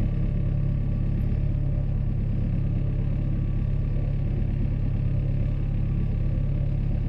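A boat's engine running steadily while under way, a constant low drone.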